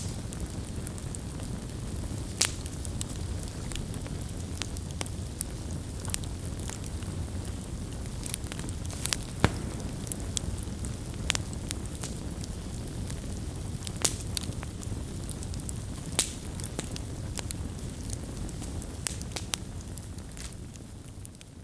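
Wood campfire burning, with a steady low rumble of flames and frequent sharp crackles and pops of the burning wood. The sound fades down near the end.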